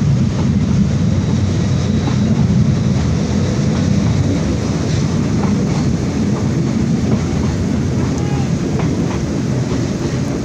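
Passenger train running along the track, a steady low rumble with faint ticks over it.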